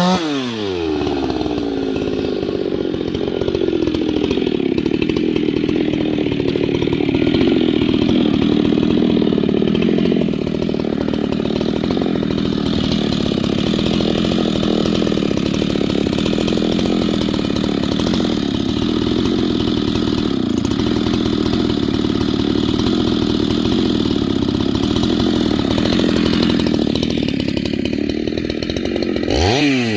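Husqvarna 390XP two-stroke chainsaw, running on a replacement carburetor, drops from a high free rev as it bites into wood and runs under load through a long cut. Near the end it comes free of the cut and revs up and down several times.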